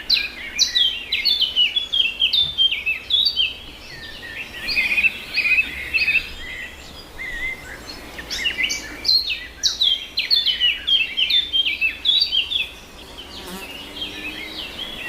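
A group of small birds chirping and twittering together in quick overlapping notes, in bouts that ease off briefly about four seconds in and again near the end.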